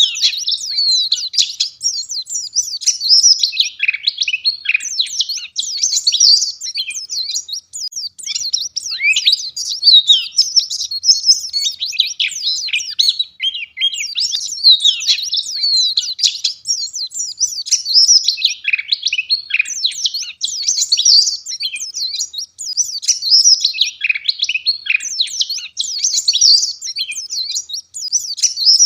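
Wild white-eye (pleci) singing vigorously: a fast, unbroken stream of high twittering and warbling notes.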